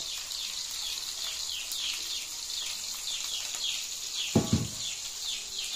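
A bird chirping over and over, short falling chirps about two to three a second, over the low sizzle of onions frying in oil in a wok. A single metallic clunk sounds about four and a half seconds in.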